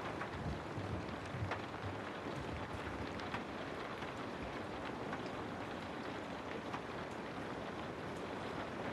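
Steady rainfall, an even hiss with scattered individual drops tapping.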